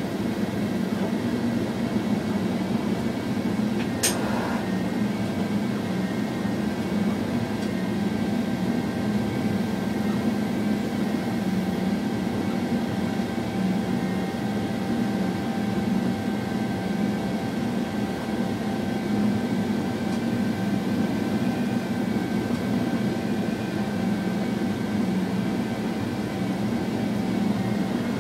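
Running noise heard inside an electric train's driver's cab: a steady rumble and hum with a few faint, steady whining tones above it. A single sharp click about four seconds in.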